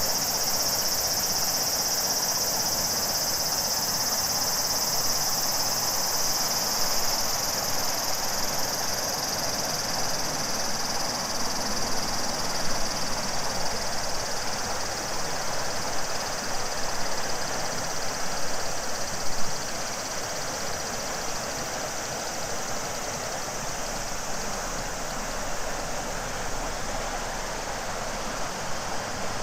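River water flowing and rushing steadily, with a chorus of summer cicadas buzzing high over it that fades out over the first ten seconds or so.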